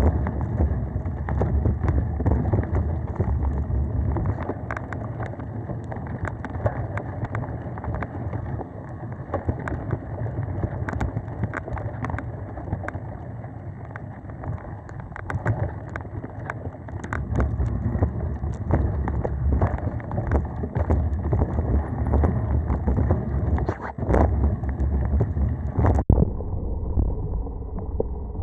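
Mountain bike ridden on a dirt singletrack trail: wind rumbling on the camera microphone and tyre noise, with many sharp clicks and rattles from the bike over rough ground.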